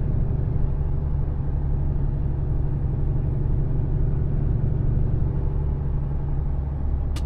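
Mercedes-Benz Actros truck's diesel engine and road noise as a steady low drone while driving. A single sharp click comes near the end.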